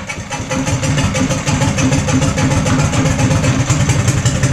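Harbor Freight Predator 420cc single-cylinder engine running loud through a custom open exhaust stack, a rapid, steady beat of firing pulses.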